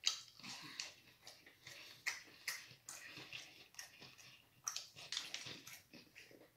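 Close-miked chewing and lip-smacking as a fried, breaded strip of food is eaten: soft, irregular wet mouth clicks, several a second.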